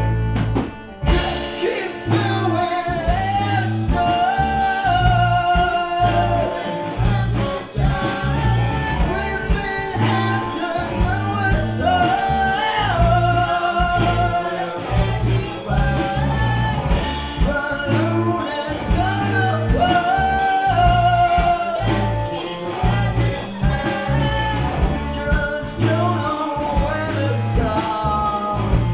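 Live gypsy rock band playing a song: a sung melody with long held notes over guitar, accordion, bass and drums keeping a steady beat. There is a brief drop in the music about a second in.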